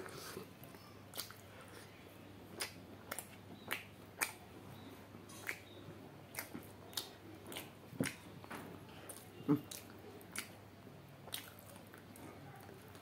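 A man chewing mouthfuls of chicken curry and rice, with wet lip smacks and mouth clicks at an irregular pace of about one or two a second.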